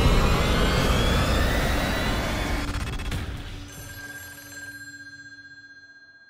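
Loud, dense rumbling noise with whistling tones slowly rising in pitch. It fades away over several seconds, leaving only faint steady tones.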